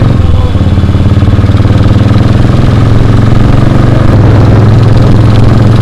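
Motorcycle engine running steadily, loud and close to the microphone, with a deep, even exhaust note.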